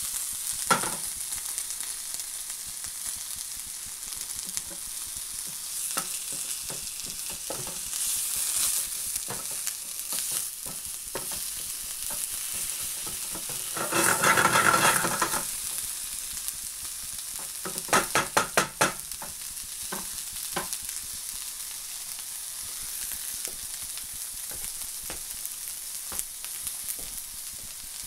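Beef burger patty and sliced onion sizzling in a non-stick frying pan, with the pan being shaken and a spatula scraping and knocking against it. About halfway through there is a louder stretch of spatula stirring and scraping, and a few seconds later a quick run of about five knocks.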